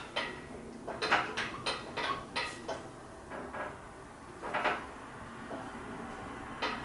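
A quick run of sharp metallic clanks and knocks, about seven in under two seconds, then two more single knocks, as a hanging engine and its crane are shifted by hand.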